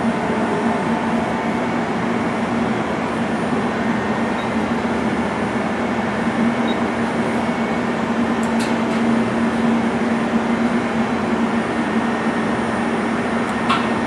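Okuma LC-50-2ST CNC lathe running through a program: a steady mechanical hum with a low drone, with two brief clicks, one about halfway through and one near the end.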